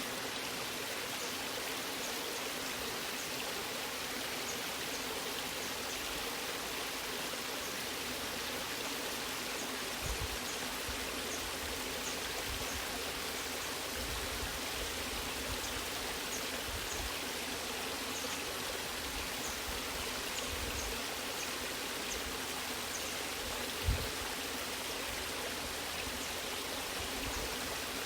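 Waterfall: a steady, even rush of falling and flowing water. Brief low thumps come about ten seconds in and again near the end.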